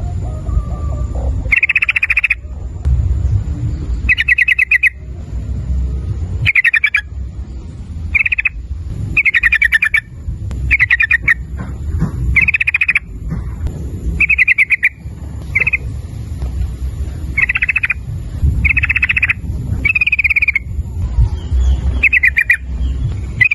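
Yellow-vented bulbul (trucukan) calling over and over: short, rapid, stuttering phrases about once a second. A low rumble runs underneath.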